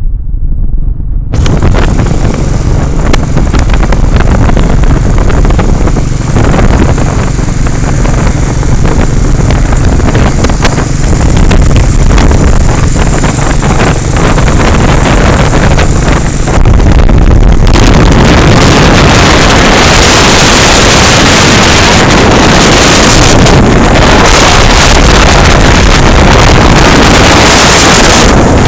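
Royal Enfield Bullet 350's single-cylinder engine running at highway speed, largely buried under heavy wind noise on a phone microphone. The wind noise gets louder and denser about two-thirds of the way through.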